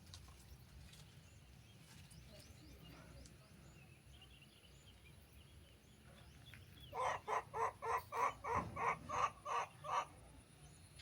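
An animal calling in a rapid run of about eleven loud, evenly spaced calls, about three a second, starting about seven seconds in and lasting some three seconds. Faint bird chirps can be heard before it.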